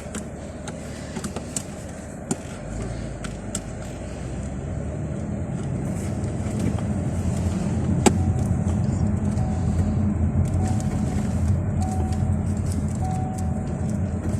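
Ford Mustang on the move: a low engine and road rumble grows louder from about three seconds in as the car picks up speed, then holds steady, with a few light clicks.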